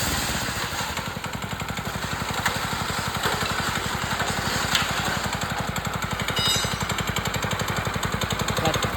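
Nishikawa NGX 220 7.5 hp single-cylinder petrol engine on a Redfox power trowel running at low speed with a rapid, even putter. A brief high squeal comes about six and a half seconds in.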